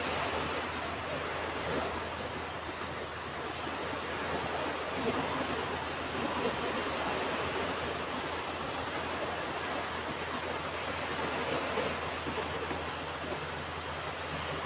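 Ocean waves breaking and washing on a beach: a steady rush of surf that swells and eases a little.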